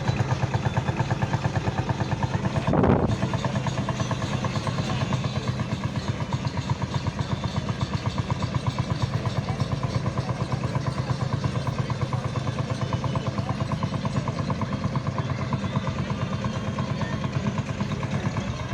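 Field Marshall single-cylinder diesel tractor engine running with a steady, rapid thumping beat, with a brief louder burst about three seconds in.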